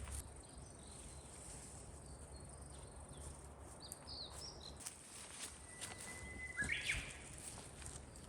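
Outdoor ambience: a faint, steady high insect drone, a few short bird chirps midway, and a bird's held note breaking into a brief call near the end, over scattered light clicks and rustles.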